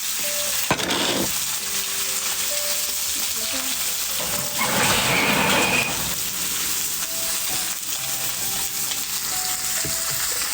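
Wood fire burning briskly, a steady crackling hiss with a sharp crack near the start and a louder flare for about a second midway.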